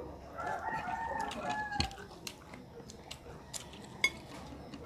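A rooster crowing once, a drawn-out call of about a second and a half, with a few light clicks from eating alongside.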